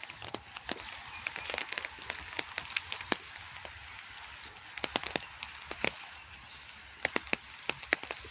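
Rain falling: a steady hiss with irregular sharp drops striking close by, a few of them loud.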